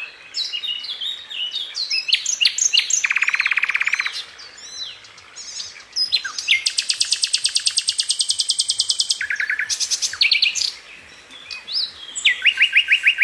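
Several wild birds calling and singing together: short chirps and whistles, with fast rattling trills, one of them long and high-pitched lasting about three seconds midway.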